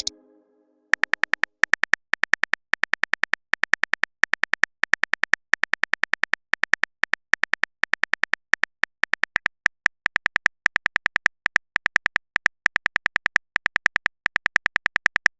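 Typing sound effect: short clusters of quick clicks, several clicks per cluster, repeating one after another, starting about a second in.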